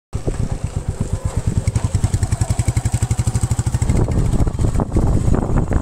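Royal Enfield Meteor 350 Supernova's single-cylinder engine running with a steady, even exhaust beat, growing louder about four seconds in.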